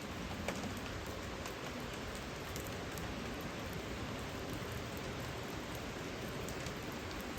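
Steady rain falling, with scattered drop ticks on a surface; one sharper drip about half a second in.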